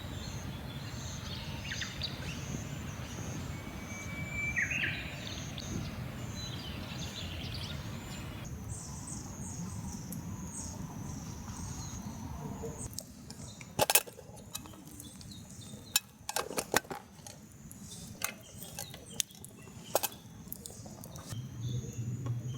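Outdoor ambience: a steady low rumble with insects chirping in a fast repeating pattern and a brief bird call about five seconds in. From a little past halfway the background drops and a scattered run of sharp clicks and knocks takes over.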